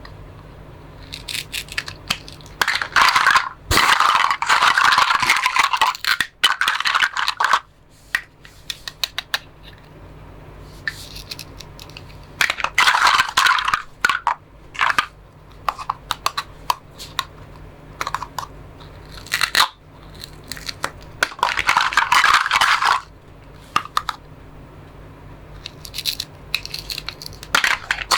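Plastic toy fruits and vegetables being cut apart with a toy knife: repeated rasping, tearing strokes lasting a second or two each, with short plastic clicks and knocks between them.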